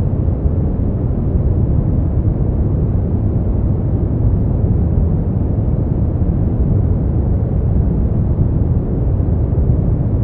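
Steady synthetic sleep-aid noise, even and unchanging, deep and rumbling with most of its weight in the low end and little treble, closer to brown noise than to bright white noise.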